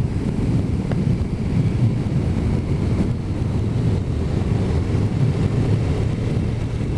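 Motorcycle riding along at road speed: steady engine and tyre noise under wind rushing over the microphone.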